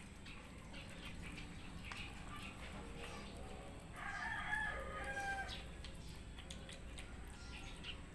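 A rooster crows once in the background, a pitched call lasting about a second and a half from about four seconds in. Faint scattered clicks come before it, in keeping with cats chewing their food.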